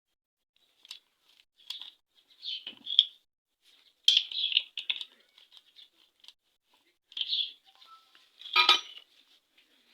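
Scattered light metallic clinks of hand tools and small engine parts on a motorcycle engine under assembly, the sharpest one near the end. Small birds chirp on and off in the background.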